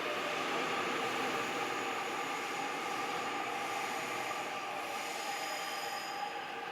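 Seoul Subway Line 6 electric train pulling into a station: steady running noise with a constant electric whine of several held tones, and fainter high tones that stop about six seconds in, the whole easing slightly toward the end.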